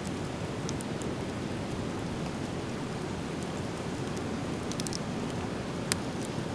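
Driftwood bonfire burning, with scattered small crackles over a steady low rushing noise and one sharp pop near the end.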